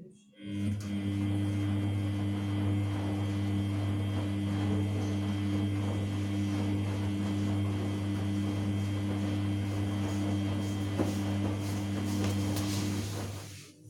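Samsung P1271 washing machine's drain pump running with a steady mains-frequency hum over the rush of water, switching on about half a second in and cutting off shortly before the end.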